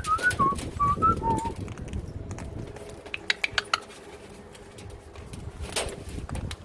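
Birds calling: a quick run of six or seven short whistled notes, stepping down in pitch over the first second and a half, over low knocking and rustling. A few sharp chirps come about three seconds in, and a single sharp click near the end.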